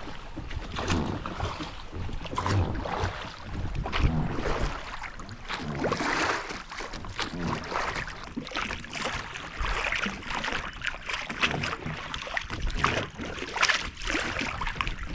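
Water splashing and sloshing around a small boat, with wind buffeting the microphone.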